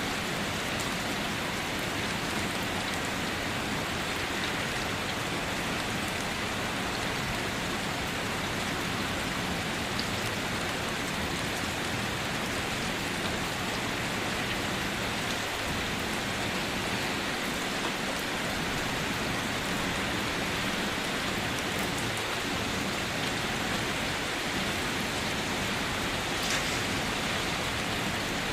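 Steady rainfall, a constant even hiss of rain with a few distinct drops ticking out of it now and then.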